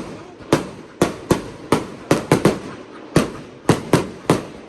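A fireworks display with shells bursting in rapid, irregular succession: about a dozen sharp bangs, several in quick clusters, each trailing off in a brief echo.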